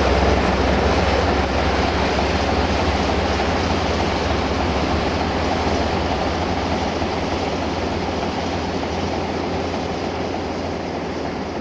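Freight train of hopper wagons pulling away behind a Sulzer-engined Class 060-DA diesel locomotive: a steady rumble of wagons and distant engine that slowly fades.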